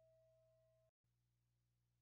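Near silence: the very faint end of a fading tone, then a moment of digital silence at a segment change.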